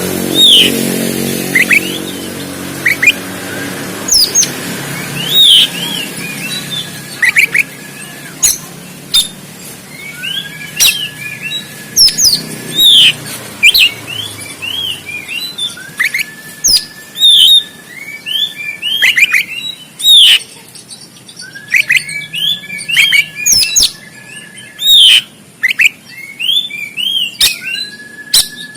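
Oriental magpie-robin (kacer) singing in quick bursts of sharp chirps and rising whistles, with a long level whistle held for about a second and repeated every few seconds. A low engine hum fades out over the first seconds.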